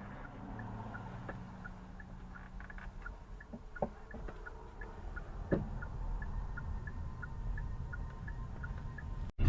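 Car turn-signal indicator ticking steadily at about three ticks a second, over a low engine and road rumble inside the car. There are two short knocks, about four and five and a half seconds in.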